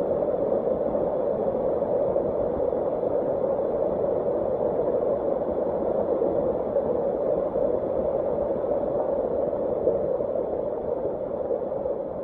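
Steady rush of a large waterfall's falling water, an even noise without breaks.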